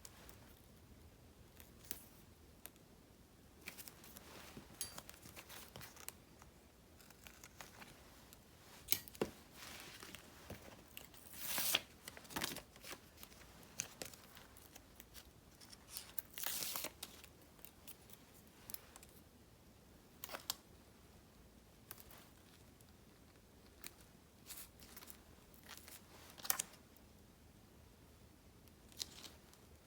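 Close-up desk sounds of paper stickers being handled: scattered small snips and clicks, light paper rustling, and two longer peeling sounds about twelve and seventeen seconds in.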